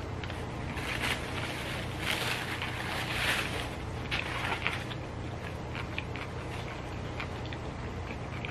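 Close-up chewing of a crispy fried chicken sandwich: crunching and wet mouth sounds with small clicks, densest between about one and three and a half seconds in, over a steady low hum.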